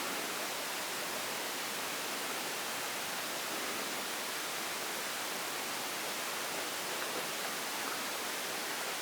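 Steady, even hiss with no change, strongest in the upper range.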